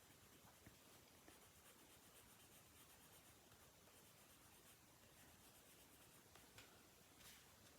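Faint scratching of a colored pencil shading on paper, barely above room tone.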